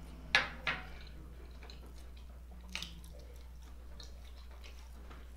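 A man chewing a mouthful of vegan sausage, with two sharp wet mouth smacks close together near the start and another a little before three seconds in, over a low steady hum.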